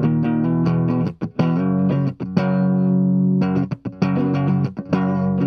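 Electric guitar played clean through a Dolamo compressor pedal, with no other effects, into a mic'd Orange 35 RT tube amp: a phrase of picked notes with a chord held for about two seconds in the middle, then more picked notes. The tone is evenly compressed and clean, without grit.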